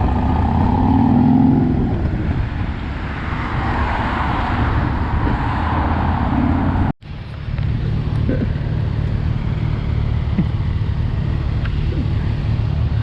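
Motor vehicle engine running in street traffic, its pitch rising briefly in the first two seconds. The sound cuts off abruptly about seven seconds in, after which a low, steady engine hum holds.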